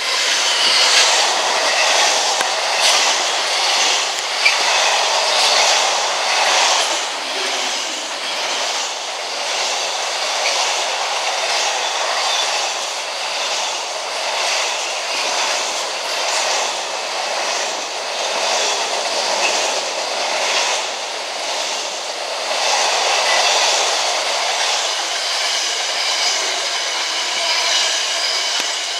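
Passing freight train: a DB Cargo Class 66 diesel locomotive goes by, followed by a long rake of container flat wagons clattering over the track. The wheels keep up a continual clickety-clack, with a high metallic ring over the top.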